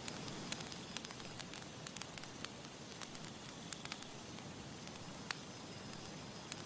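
Wood campfire crackling: irregular sharp pops and snaps over a steady soft hiss.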